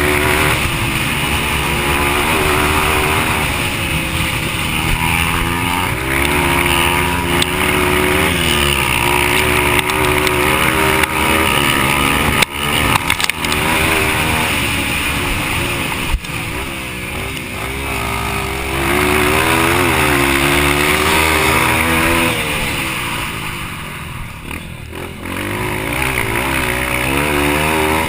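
Yamaha TT-R230's single-cylinder four-stroke engine under race throttle on a dirt track, its pitch climbing and dropping again and again as it revs through the gears. A couple of sharp knocks come about midway, and the throttle eases off briefly a few seconds before the end.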